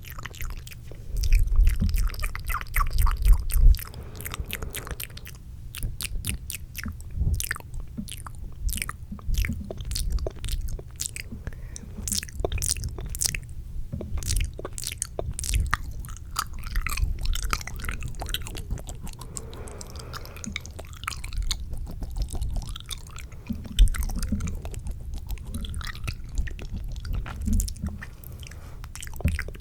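Fast mouth sounds close to a microphone: rapid wet clicks and smacks of tongue and lips, with a few heavier low thuds near the start.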